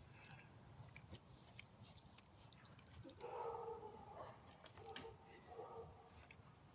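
Near silence, with faint scattered clicks and a faint, broken pitched sound in the middle.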